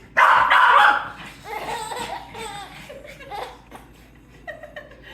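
A baby giggling and squealing with laughter, mixed with a dog barking. The loudest burst comes right at the start, followed by quieter, wavering giggles.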